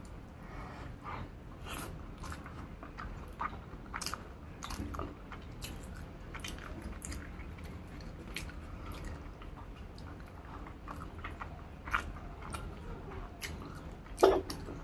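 Close-up chewing and wet mouth sounds of a person eating a rice-and-curry meal, with many small sharp clicks and smacks, one louder click near the end.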